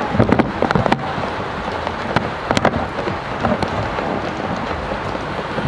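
Steady rain falling on wet concrete, with a few sharp clicks and taps in the first second and again around two and a half seconds in.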